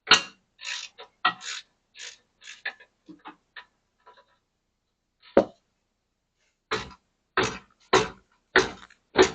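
Hand tools knocking and clinking against metal parts of the brake and suspension: scattered sharp knocks at first, then a run of louder strikes about twice a second in the last few seconds.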